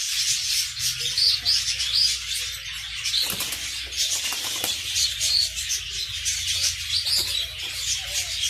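Many caged pet birds chirping and tweeting together: a dense, continuous chatter of short, high calls, over a faint steady low hum.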